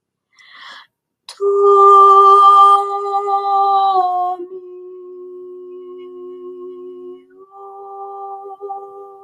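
Wordless vocal toning: a loud sung note held steady from about a second in, slipping slightly lower around four seconds, then softer held tones that rise back near the end.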